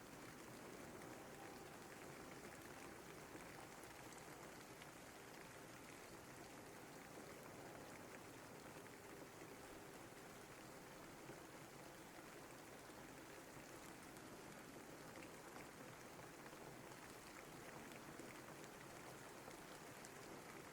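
Steady, faint rain: an even hiss with scattered light drop ticks that does not change.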